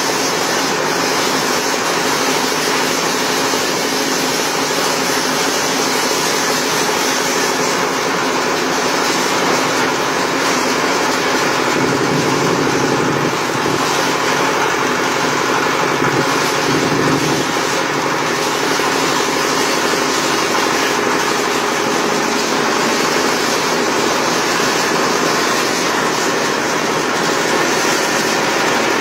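Grass chopper / compost shredder machine running, a loud steady mechanical din with a heavier, lower sound for a few seconds in the middle.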